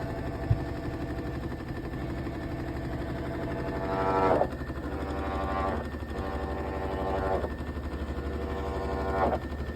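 Hitachi BD-V9400 drum washing machine in its spin cycle, running with a steady hum and a strange noise that swells and cuts off sharply every second and a half or two. The abnormal noise is apparently caused by a face mask's wire caught in the drum.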